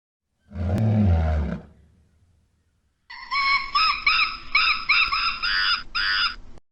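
Animal calls: a single low, loud call about half a second in, then, after a pause, a quick run of about eight high-pitched squeaky calls that stops abruptly.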